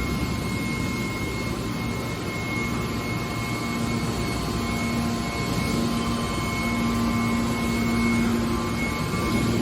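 Hydraulic metal baler's power unit running steadily: a constant machine noise with a steady whine over it, and a low hum that grows stronger about halfway through.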